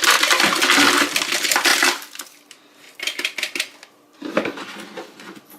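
The plastic dustbin of a robot vacuum being handled and emptied: dry debris rattling and clattering against the plastic in a dense burst for about two seconds, then two shorter rattles a second or so apart.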